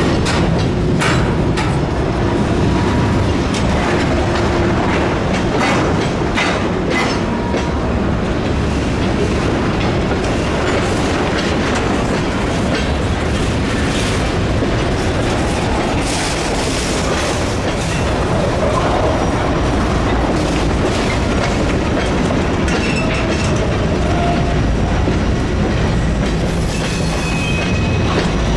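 Freight cars, covered hoppers and a tank car, rolling past close by: steel wheels rumbling on the rails and clacking over rail joints, with a faint wheel squeal near the end.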